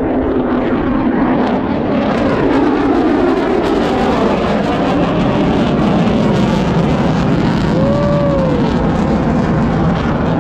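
Loud steady roar of an aircraft flying by, building over the first couple of seconds and then holding, with a short rising-and-falling cry about eight seconds in.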